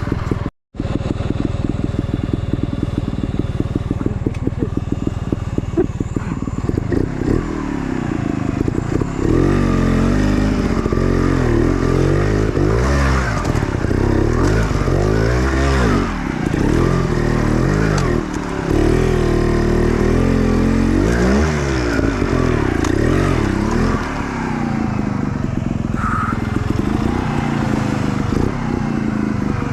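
Off-road dirt bike engine running at low revs, then revved up and down again and again as it is ridden over rough enduro terrain.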